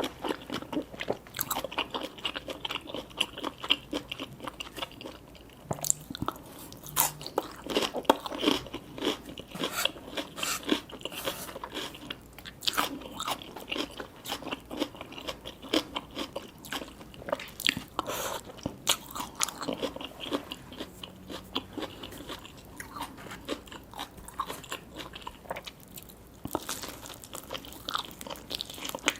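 Close-miked eating sounds: crunchy bites and chewing of fried seafood and sushi, a dense, irregular run of crisp crackles and wet chews.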